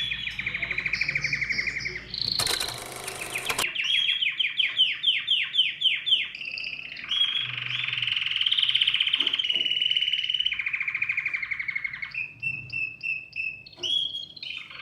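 Domestic canary singing a continuous song of rapid trills and rolls. A short harsh buzzing phrase comes about two seconds in, followed by a run of quick downward-sweeping notes, with separate short chirps near the end.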